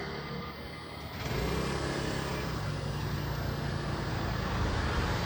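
Motorbike engine running while riding through city traffic, with road and traffic noise around it; it grows louder about a second in and then holds steady.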